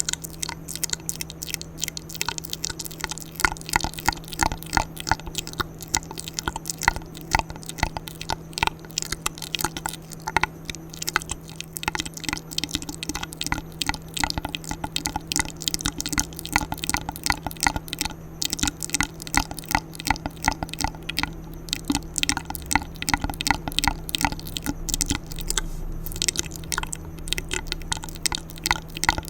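Wet ASMR mouth sounds made close to the microphone through a tube: rapid clicks and smacks, several a second, over a steady low hum.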